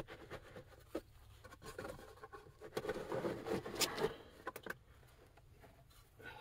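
A trouser belt rubbing and scraping around a spin-on oil filter as it is pulled tight like a strap wrench to break the stuck filter loose. A louder stretch of rubbing comes partway through, followed by a few sharp clicks.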